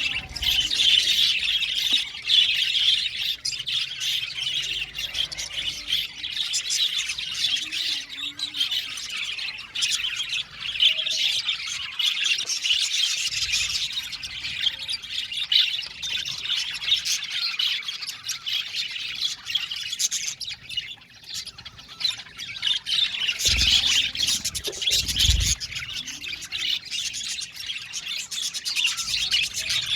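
A flock of budgerigars chattering together: a dense, continuous mix of chirps, warbles and squawks. Two dull low thumps come a couple of seconds apart in the second half.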